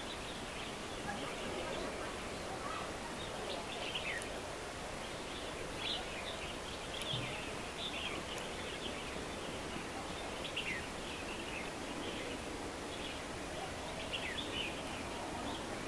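Outdoor ambience: steady background noise with small birds chirping now and then, short high chirps that drop in pitch.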